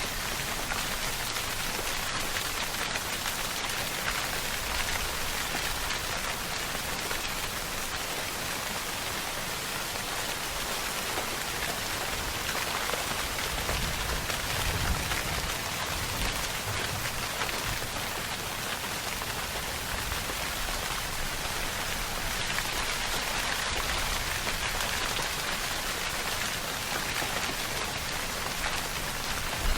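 Steady rainfall, an even hiss of rain pattering on a surface, with a faint low rumble swelling briefly about halfway through.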